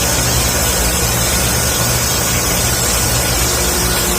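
An engine idling steadily: a constant low hum with a few even tones and a hiss on top, unchanging throughout.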